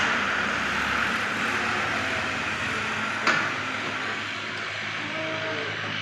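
Tractor engine running steadily with a low hum, and a single sharp click a little over three seconds in.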